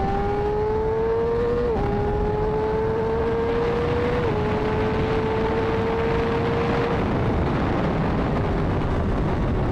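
Honda CBR600RR's inline-four with an aftermarket exhaust accelerating hard through the gears: the engine note climbs, drops at an upshift about two seconds in, climbs again, drops at a second upshift about four seconds in, then rises slowly. Heavy wind rush on the microphone throughout.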